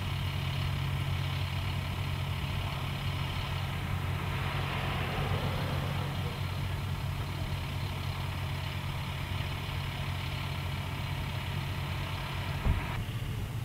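Steady mechanical hum of the idling Doppler on Wheels radar truck, with a whine of several high tones that cuts off suddenly near the end, just after a single knock.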